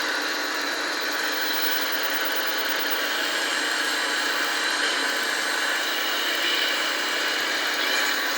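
Steady whirring of radio-controlled model machinery running, with a faint high whine in the middle.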